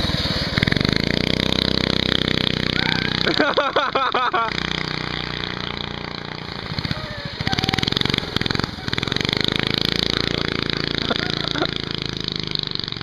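Baja Doodle Bug minibikes' small single-cylinder engines running under throttle, the engine note rising twice as they speed up and then holding steady. A short, quickly wavering voice-like sound breaks in about three and a half seconds in.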